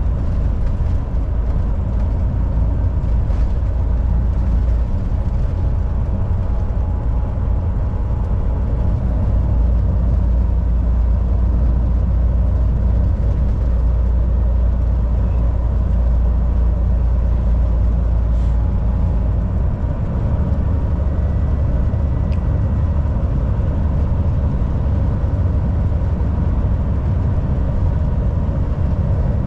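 Volvo VNL 760 semi truck cruising on the highway: a steady, loud low engine drone mixed with road noise. The deepest part of the drone changes about two-thirds of the way through.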